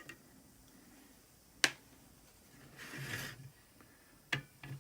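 Screwdriver and small screws being worked out of a door operator's circuit board: two sharp clicks with a short scrape between them.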